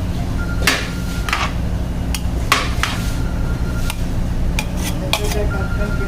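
Metal utensils clinking and knocking against a metal cooking pot, about a dozen sharp strikes, some leaving a short ringing tone. A steady low rumble runs underneath.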